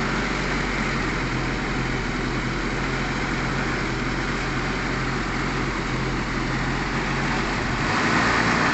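A car engine idling steadily, with a low hum under a broad hiss, getting a little louder near the end.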